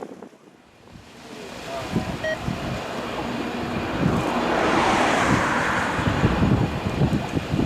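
Jet airliner growing louder as it passes close on its landing approach, loudest about five seconds in, with strong gusty wind buffeting the microphone.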